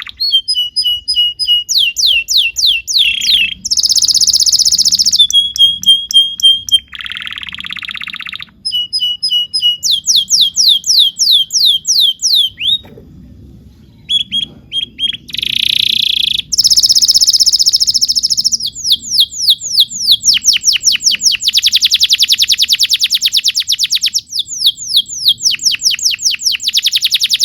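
Canary singing a long song: fast repeated whistled trills, buzzy rolls and a rapid chopped note, with a brief pause partway through.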